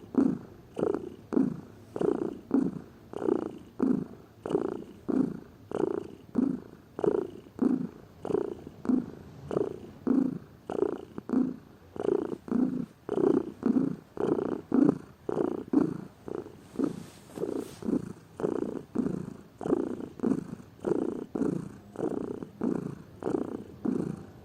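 Domestic cat purring steadily, the purr swelling and fading in an even rhythm of about two pulses a second.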